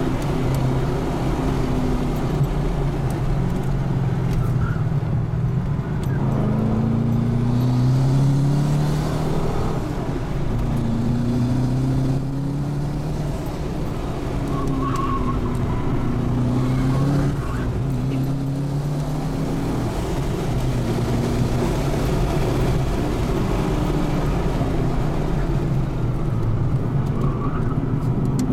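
Holden Commodore SS wagon's twin-turbo 6.0-litre V8, heard from inside the cabin, driven hard on track: the engine note repeatedly climbs over a couple of seconds under acceleration, then drops back as the driver lifts or changes gear.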